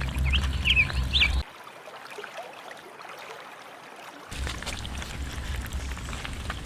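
Outdoor field recording: a loud low rumble that stops about one and a half seconds in and comes back about four seconds in, with a few short, high, rising chirps from a bird in the first second.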